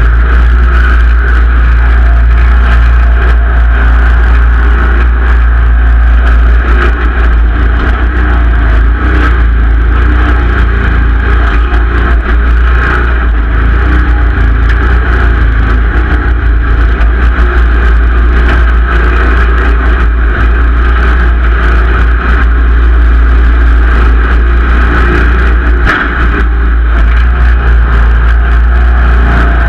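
Simplicity Legacy XL garden tractor's engine running steadily and loudly under work.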